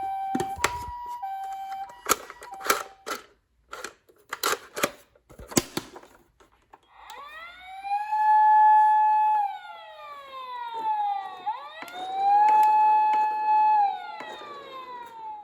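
Toy ambulance's electronic siren: a brief high-low two-tone pattern, then after a few seconds of clicks and knocks, two long wails that rise, hold a steady pitch and fall away.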